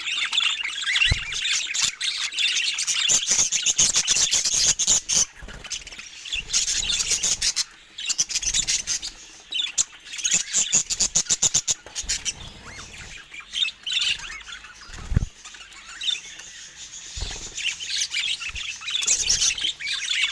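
Budgerigars chattering and chirping in a quick, busy warble, with a few brief low thuds now and then.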